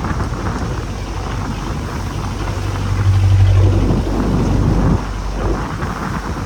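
A small fishing boat's engine running at sea, its low hum rising about three seconds in, with wind buffeting the microphone and the rush of waves.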